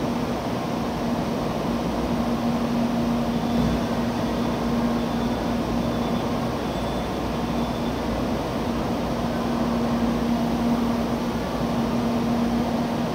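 Stationary N700A Shinkansen trainset humming at rest, its equipment and air-conditioning fans running as a steady rushing noise with a low droning tone under it.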